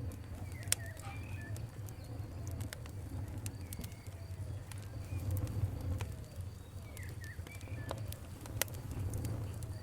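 Campfire crackling, with scattered sharp pops over a low steady rumble of burning. Short bird chirps come in a few times, about a second in, around three and a half seconds and near seven seconds.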